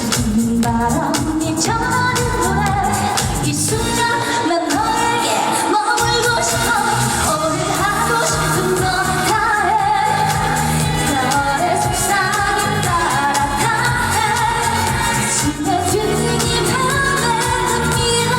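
A woman singing a Korean trot-style pop song live over a loud backing track with a steady beat.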